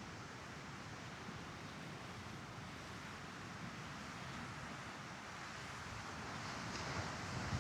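Sea waves washing onto a sandy beach, a steady rush of surf with some wind on the microphone, growing a little louder near the end.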